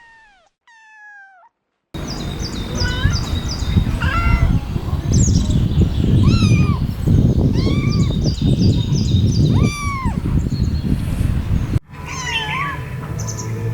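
Several kittens mewing at once: longer arching meows overlaid with rapid rows of short, high-pitched mews, over a low rumbling noise. A brief silence comes about a second in and a sudden cut near the end, after which more mews follow.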